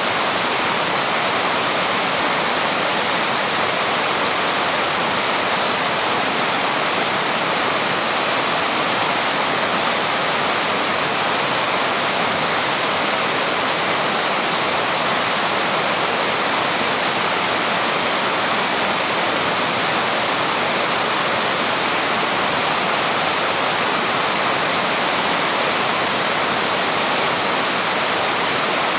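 Small waterfall pouring steadily: an even, unbroken rush of falling water.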